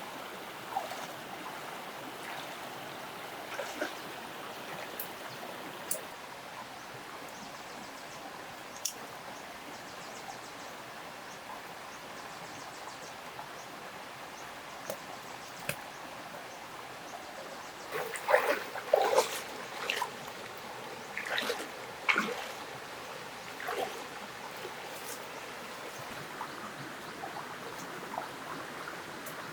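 Water trickling steadily, with scattered light clicks and a burst of louder knocks and splashes about two-thirds of the way through.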